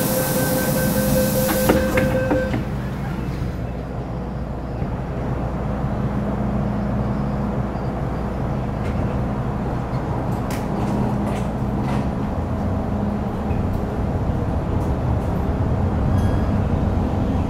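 Metro Cammell M-Train electric multiple unit with GEC GTO chopper traction running on the line, heard from inside the car as a steady rumble and rolling noise. In the first couple of seconds there is a steady two-note tone and a short hiss, then the running noise continues with a few light clicks.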